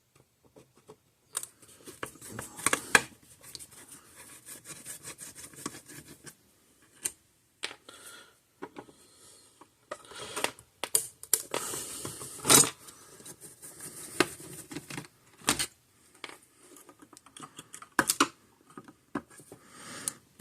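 Scattered scrapes, clicks and small knocks of hand tools and parts being worked on an electric fence charger, with a few sharper knocks among them.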